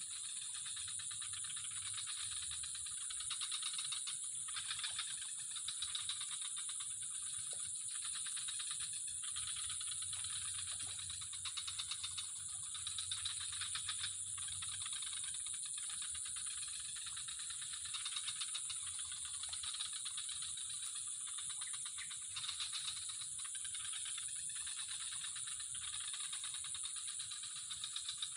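Chorus of insects or frogs: a steady high-pitched shrill with fast rattling trills on top that swell and fade every few seconds.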